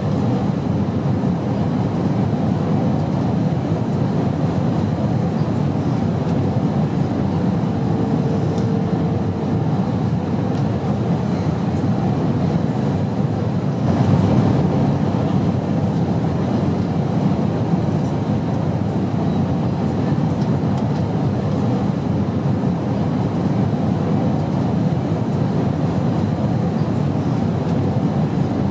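Airplane noise: a steady, low, rushing drone that swells briefly about halfway through. A faint short tone sounds about eight seconds in.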